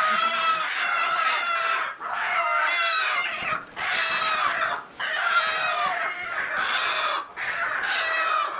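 A flock of chickens calling over one another in long, drawn-out calls, with brief breaks every second or two.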